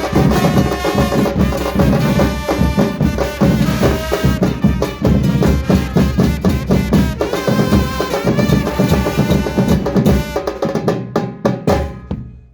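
Murga band playing: drums and percussion driving a steady beat under pitched instrumental or sung parts, closing with a few separate accent hits and dying away at the very end.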